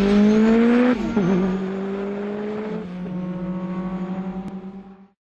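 Car engine sound effect revving up with a rising pitch. About a second in it drops suddenly, then holds a steady note and fades out near the end.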